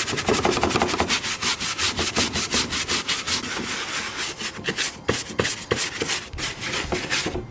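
Fast back-and-forth rubbing over a felt hood insulation pad, a rhythmic scratchy scrubbing of several strokes a second.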